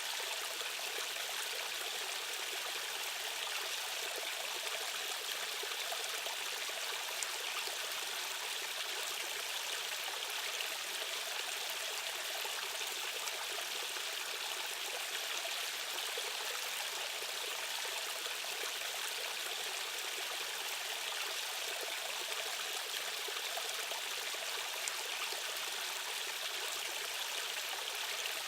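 Rushing water of a stream current flowing steadily, an even, unbroken rush that is bright and has little deep rumble.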